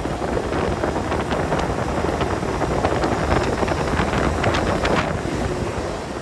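Walk-in freezer condensing unit running: compressor and condenser fan making a steady noise that eases off slightly near the end.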